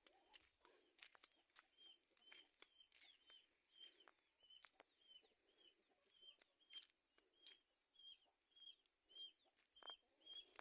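Faint, evenly repeated short high chirps of a small bird, about two or three a second, starting about two seconds in. Scattered faint clicks run alongside.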